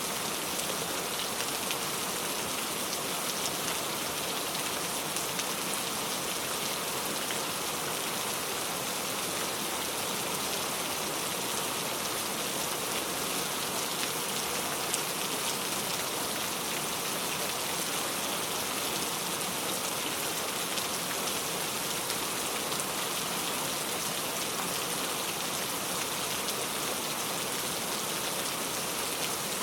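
Steady rain falling, a continuous even hiss of many small drops with faint ticks of drops on a surface.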